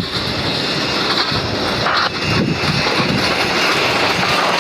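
Loud, steady roar of a jet airliner's engines.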